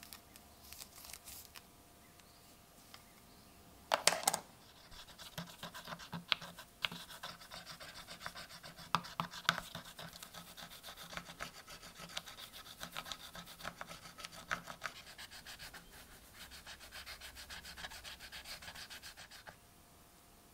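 Rapid back-and-forth scraping strokes of hand abrading on a pocket knife part, such as rubbing with an abrasive. A few sharp clicks come first, then steady scraping that stops shortly before the end.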